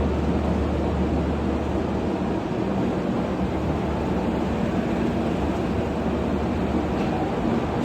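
Steady rumbling noise of a train running, with a low droning hum underneath.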